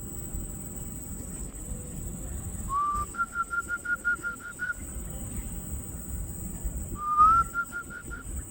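Clear whistled call given twice: a note sliding upward, then a quick run of short, even notes at one pitch. The second phrase is shorter.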